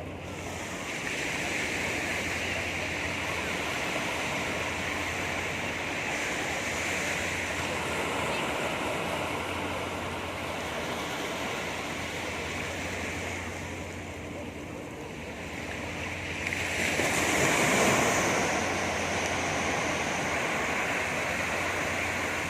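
Sea surf washing onto a beach in a steady rush, with one bigger wave swelling and breaking loudest about three quarters of the way through.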